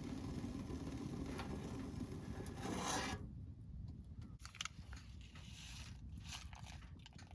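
A steady rushing noise that cuts off sharply about three seconds in, then quiet with light clicks and scrapes of small objects being handled.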